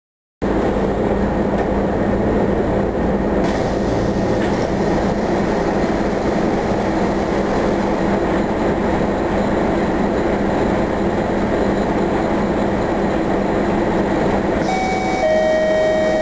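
Scania ED95 ethanol city bus running, a steady loud engine rumble heard on or beside the bus. About a second before the end a steady electronic tone starts over it.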